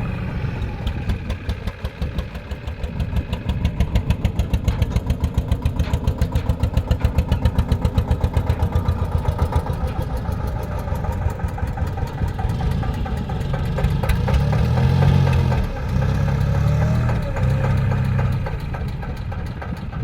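Tractor diesel engine running, its sound beating in regular pulses about five times a second, then growing louder and deeper in the second half with a few short dips.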